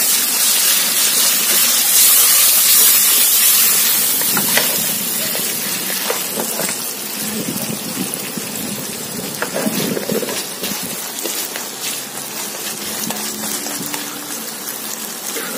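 Chicken pieces sautéing in hot oil in a nonstick wok: a steady, hissing sizzle that gradually softens, with faint taps of wooden chopsticks stirring them against the pan.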